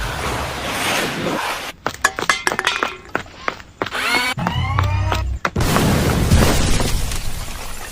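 Layered action-film sound effects of a robot battle: a rumbling crash, then a quick run of sharp mechanical clicks and clanks with a few rising whirs, then more heavy rumbling noise.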